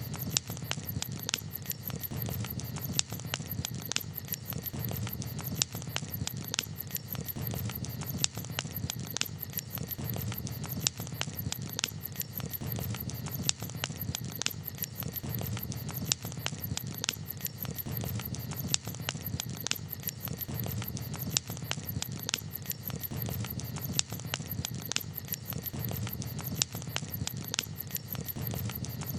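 Campfire crackling: irregular sharp pops and snaps, several a second, over a steady low background rush.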